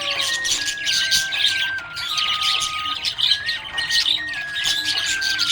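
Budgie chirping and chattering in quick, dense bursts, over background music with a simple melody of held notes.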